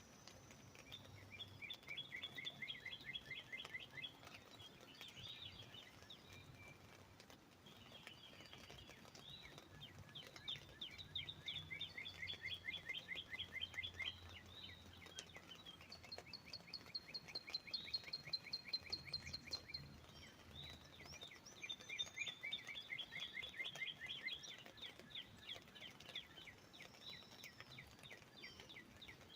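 Northern cardinal singing: four phrases of quick repeated notes, each lasting several seconds, the third pitched higher than the others, over a faint steady background hiss.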